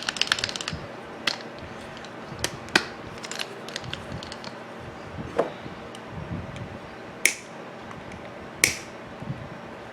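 Handling noise from a Skil 4-inch angle grinder being worked on by hand: a quick run of small clicks at first, then scattered clicks and knocks of its parts, with two sharper clicks near the end.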